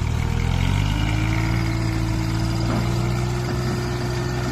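Truck engine running steadily at a low idle, its pitch lifting slightly about a second in.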